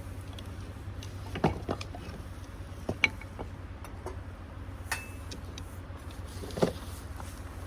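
A handful of separate knocks and clicks, one with a short metallic clink, as objects are handled, over a steady low hum.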